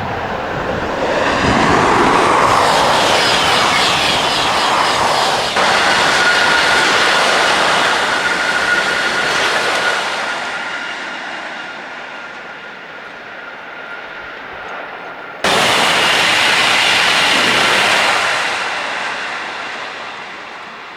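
TGV high-speed trains passing at full speed: a loud rush of air and wheel-on-rail noise that fades as each train draws away. The sound changes suddenly about five and a half seconds in and again about fifteen seconds in, with a steady high whine through the middle stretch.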